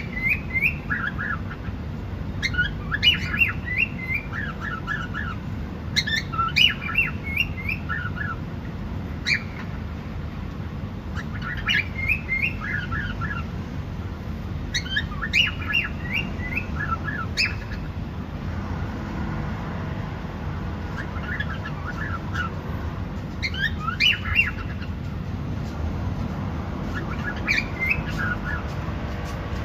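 Cockatiel chirping in short runs of quick, falling notes, a new run every two to three seconds, over a steady low background rumble.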